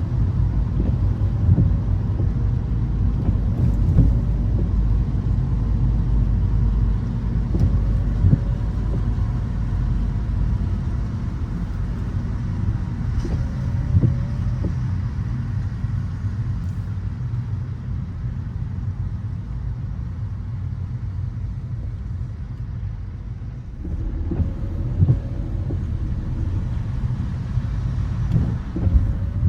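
Car driving on wet city streets: a steady low rumble of road and engine noise with a hiss of tyres on the wet surface, broken now and then by short thumps.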